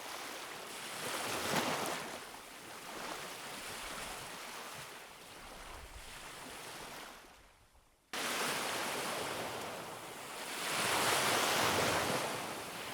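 Surf washing onto a beach in slow swells, with wind on the microphone. The sound cuts out for under a second about seven and a half seconds in, then comes back louder, swelling again near the end.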